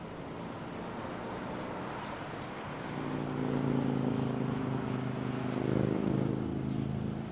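Airbus A220-300's Pratt & Whitney PW1500G geared turbofans running after landing: a steady rumble, with a low hum that swells about three seconds in, holds for about four seconds and then fades.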